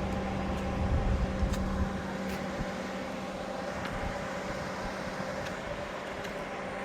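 Low rumble of road vehicle engines, a little louder in the first two seconds, over a steady hum, with a few faint clicks.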